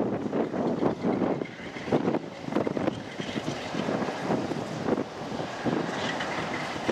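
Diesel locomotive engine running, with wind buffeting the microphone in uneven gusts.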